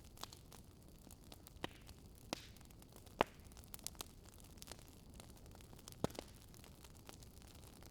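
Wood fire crackling: irregular sharp pops and snaps from burning logs over a soft steady hiss, with one louder pop a little past three seconds in and another near six seconds.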